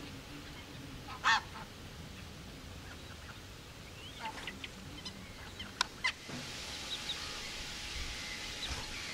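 Birds calling at a wetland: one loud, short call about a second in, then a few briefer calls between about four and six seconds in, over faint low background noise.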